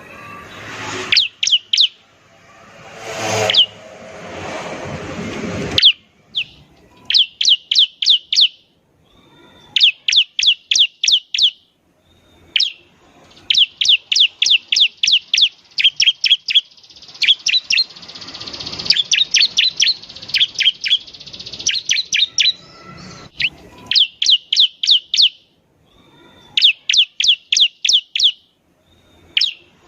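Bar-winged prinia (ciblek) singing: bursts of six to ten quick, high notes, each sweeping down in pitch, repeated every couple of seconds with short gaps. A noisy hiss swells and fades under the song in the first few seconds and again in the middle.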